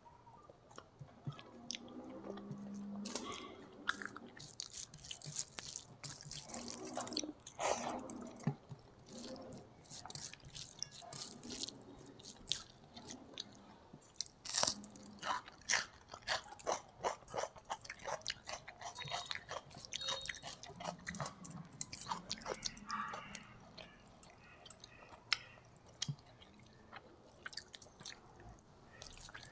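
Close-miked wet chewing of hand-fed rice and fish curry, full of small sharp mouth clicks. About fourteen seconds in, a bite into a raw onion ring is followed by a few seconds of dense, crisp crunching chews.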